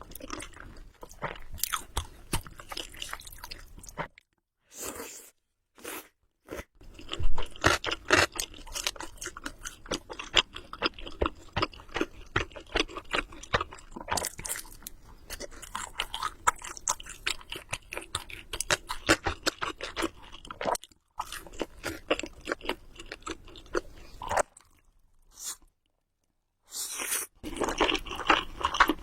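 Close-miked chewing of Samyang Buldak carbonara noodles: a dense run of quick wet mouth clicks and bites. It is broken by a few short dead-silent gaps, the longest about two seconds near the end.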